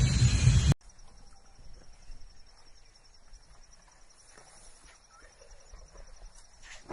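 Loud rumbling noise with some animal calls that cuts off abruptly under a second in, followed by a faint, steady, high-pitched pulsing insect trill with a few soft ticks and rustles.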